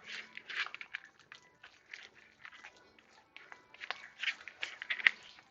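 Spatula mixing chicken salad and scraping it around the sides of a bowl: irregular wet squishing and scraping strokes, with a sharper click about five seconds in.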